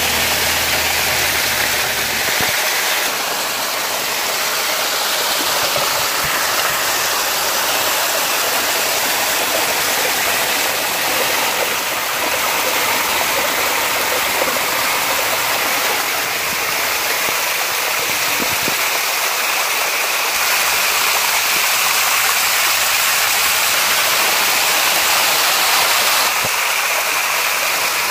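Steady, loud rushing of floodwater. A low hum underneath fades out about two seconds in.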